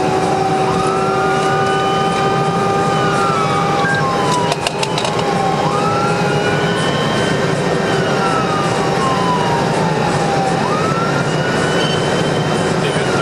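Police car siren on a slow wail, rising quickly and falling slowly about every five seconds, over steady engine and road noise. There is a short cluster of clicks about four and a half seconds in.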